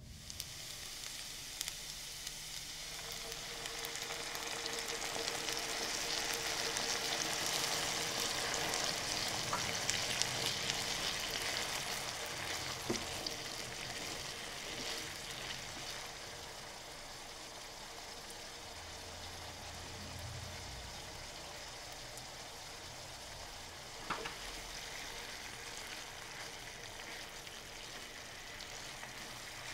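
Diced luncheon meat and potatoes sizzling in a sauce in a hot nonstick pan while being stirred with a silicone spatula. The sizzle builds to its loudest in the first third and then settles lower, with a couple of light knocks of the spatula against the pan.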